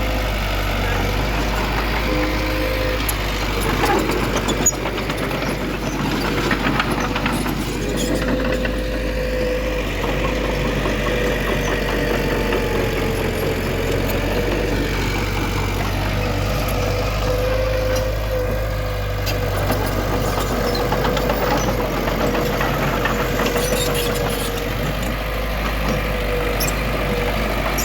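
Heavy diesel engine of earthmoving machinery running steadily, with a steady whine over it and a few short knocks about four and seven seconds in.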